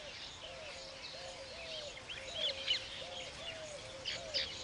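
Weaver birds chirping in two short clusters of high calls, over a low call that repeats steadily about twice a second.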